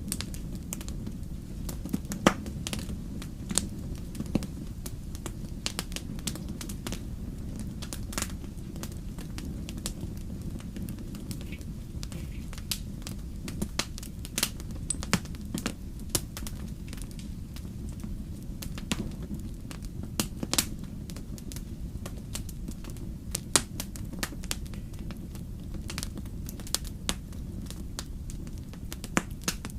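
Wood fire crackling: a steady low rumble of the burning logs with frequent irregular sharp pops and snaps.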